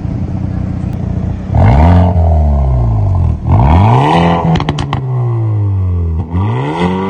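Hyundai i30N's turbocharged 2.0-litre four-cylinder engine pulling hard under acceleration, heard from inside the car. The revs climb, drop sharply at an upshift, and climb again. Then the revs fall away as it comes off the throttle, with a few sharp cracks, before picking up once more.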